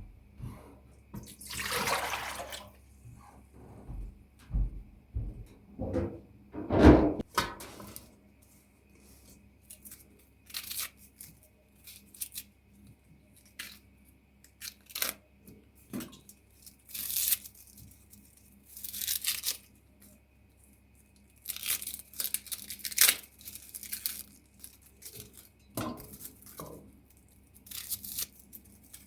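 Intermittent kitchen sounds with a watery, splashing character: a string of short bursts of uneven length, with a few low knocks, the loudest about seven seconds in.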